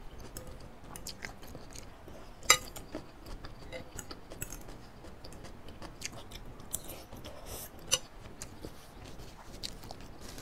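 Close-miked chewing of noodles and bean sprouts, with wet mouth clicks and small crunches. Two louder clicks stand out, about two and a half seconds in and near eight seconds.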